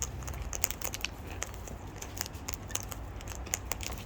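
Birds pecking and cracking at seed and food, a run of small irregular clicks and cracks from their beaks, several a second.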